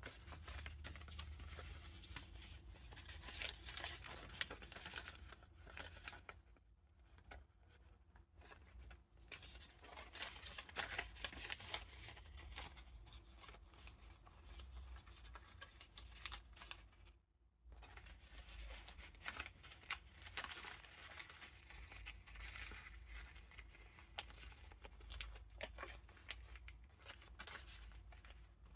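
Paper pages and tucked-in ephemera of a junk journal being turned and handled: a steady rustling and crinkling with many small crisp clicks, broken by a couple of brief pauses.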